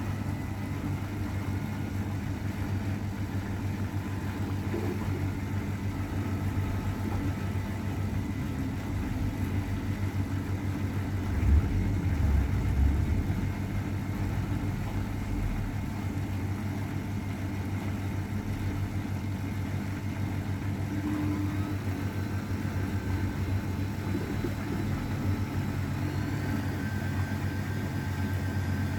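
32-year-old AEG Öko-Lavamat 693 front-loading washing machine running through its wash cycle: a steady low motor hum, with a brief louder run of low thumps about eleven to thirteen seconds in.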